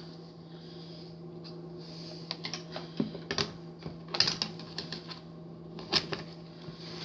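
Small hard decorating pieces being handled and set down, giving irregular clicks and taps that come thickest about three to four seconds in and again near six seconds, over a steady low hum.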